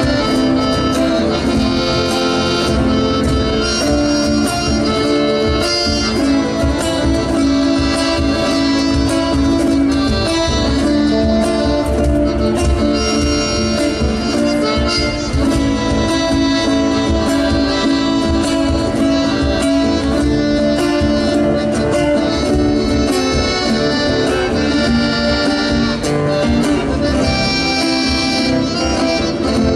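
Instrumental chamamé music played by an accordion-led folk group with guitar accompaniment.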